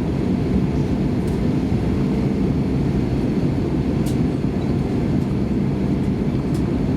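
Steady low rumble inside the cabin of a Lufthansa Airbus A320 taxiing after landing: engine and rolling noise, with a few faint clicks now and then.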